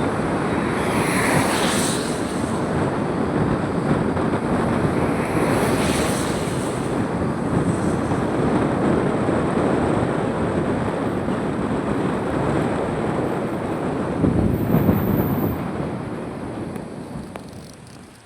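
Steady rushing of a waterfall, a loud even roar of falling water that fades away near the end.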